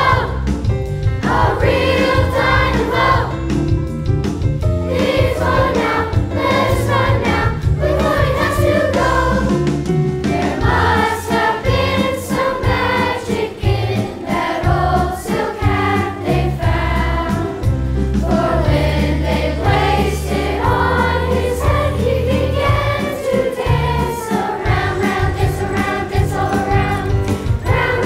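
A chorus singing a Christmas song over an instrumental accompaniment with a pulsing bass line.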